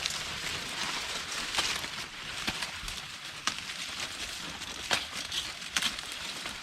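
Dry corn leaves and husks rustling as plants are worked by hand, with irregular sharp snaps and crackles about once a second.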